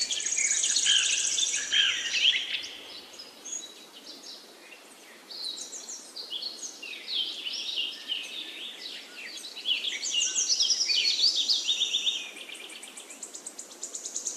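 Birds chirping and singing in quick, overlapping short calls, with a high buzzing trill that comes and goes; the calls thin out for a moment about four seconds in.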